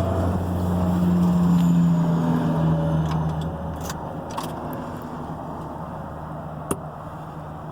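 1997 Ford Powerstroke 7.3 L turbo-diesel V8 running just after a cold start in freezing weather. It is louder for the first three seconds, then settles quieter. A single sharp click comes near the end.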